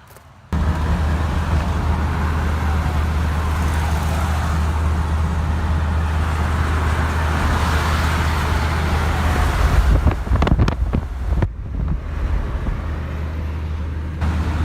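Diesel OBS Ford pickup on the road: a steady low engine drone with tyre and wind noise, starting abruptly, with a brief jumble of knocks about ten seconds in.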